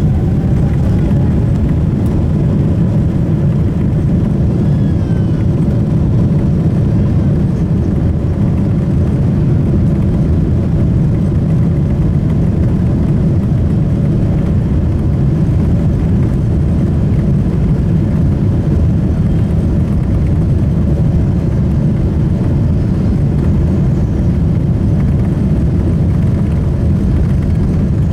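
Boeing 777-300ER airliner's GE90 engines heard from inside the passenger cabin: a loud, steady low rumble that holds even throughout.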